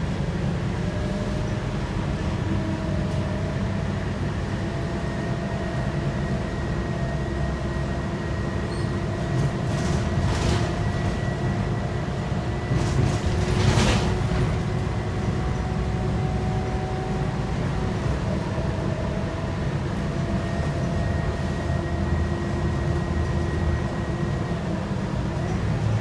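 Scania K230UB bus with its 8.9-litre five-cylinder DC9 diesel and ZF six-speed automatic, heard from on board while under way: a steady low drone with a whine that slowly climbs in pitch, then drops about two-thirds in as the gearbox shifts up and climbs again. Two sharp knocks or rattles come near the middle.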